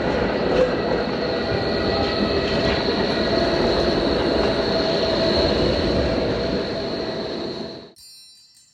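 Subway train running: a steady rumble of wheels on rails with a high, steady squeal over it, cutting off suddenly near the end.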